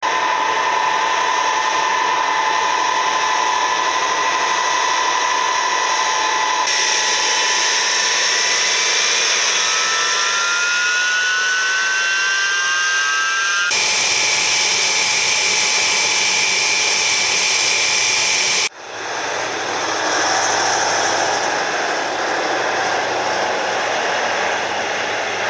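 Loud, steady engine noise with high whining tones, cut into several separate stretches. In one stretch a whine rises slowly in pitch.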